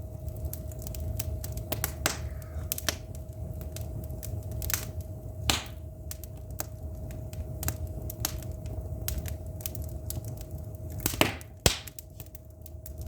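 Wood fire crackling in a fireplace: irregular sharp pops and snaps over a low steady rumble, with a faint steady hum underneath.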